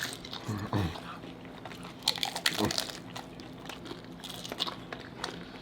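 Crunchy hard taco shells being bitten and chewed close to the microphone, with bursts of crackling crunches, the densest about two to three seconds in.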